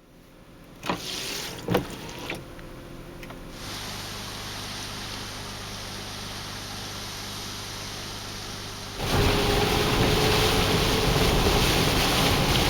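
Inside a moving car: a few sharp knocks in the first couple of seconds, then a steady low engine hum. About nine seconds in, a much louder, even rush of road, rain and wind noise takes over as the car drives through the rain.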